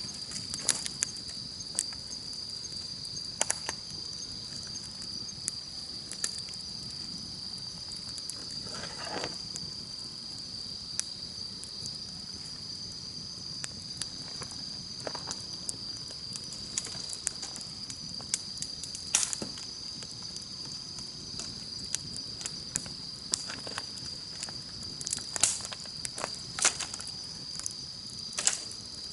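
Campfire crackling, with scattered sharp pops and snaps at irregular intervals, over insects chirring in one steady, high-pitched drone.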